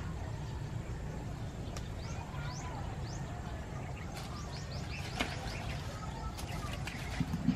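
Small birds chirping in quick, short rising notes over a steady low rumble, with a few faint clicks.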